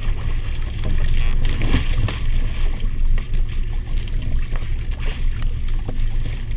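A boat engine running steadily with a low rumble, along with water and wind noise and a few faint clicks.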